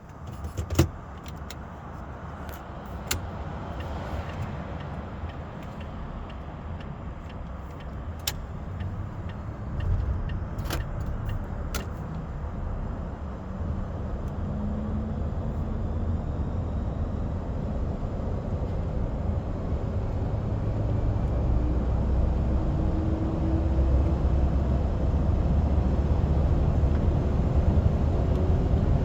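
Renault Trucks E-Tech electric truck accelerating from a standstill: low rumble and road noise build steadily as speed rises, with a faint whine that climbs in pitch in steps from about halfway through. A few sharp clicks or rattles come in the first part.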